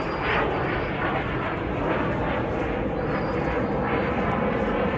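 Propeller aircraft engines droning overhead, steady and building slightly in loudness.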